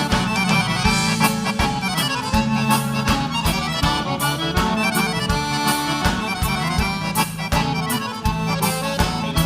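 Live gaúcho dance music played as an instrumental break: an accordion carries the melody over bass and a steady drum beat.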